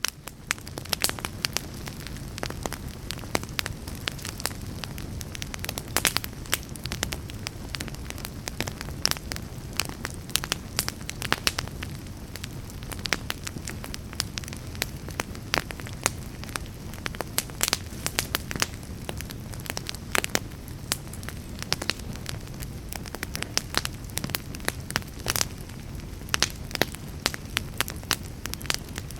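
Fire burning in a fireplace: a steady low rumble of flame under frequent, irregular sharp crackles and pops.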